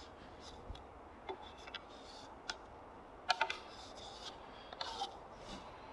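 Chisel working wood inside a timber mortise: faint scraping and paring sounds with scattered light clicks and taps at irregular intervals.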